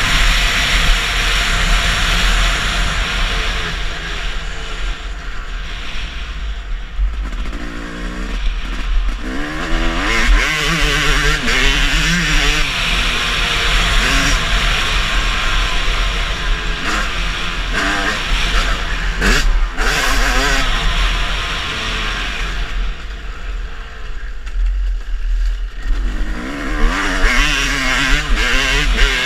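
Motocross bike engine revving up and down as it is ridden, its pitch rising and falling with the throttle, over a steady rushing noise.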